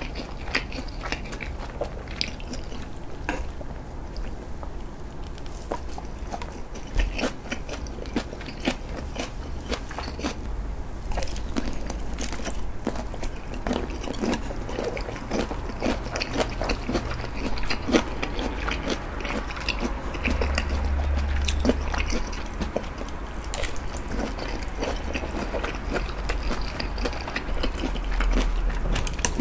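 Close-miked chewing of food with the mouth closed: soft, irregular wet bites and mouth clicks, with a brief low rumble about two-thirds of the way through.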